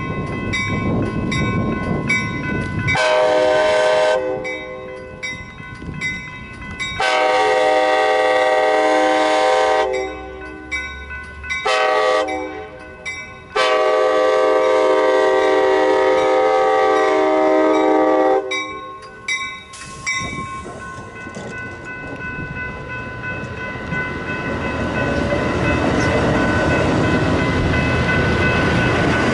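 Amtrak San Joaquins passenger train sounding its horn for a grade crossing in the long, long, short, long pattern, over the rapid ringing of the crossing-signal bell. The bilevel passenger cars then roll past close by with a rising rumble of wheels on the rails.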